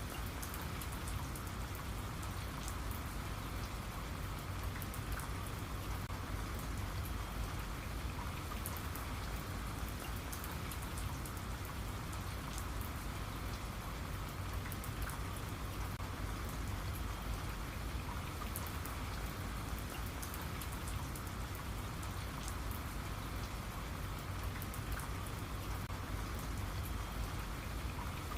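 Steady rain falling, with many fine drop ticks over an even patter and a low rumble beneath.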